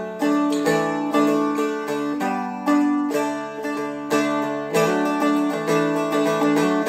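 Seagull Merlin M4 strummed in a steady rhythm, about two strums a second. A drone note rings underneath and the chords change a couple of times.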